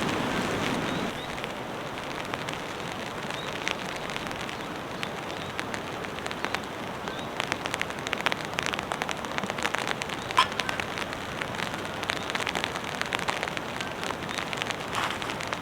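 Rain falling steadily, with a hiss of rain and individual drops pattering on a surface; the drop hits become more frequent about halfway through.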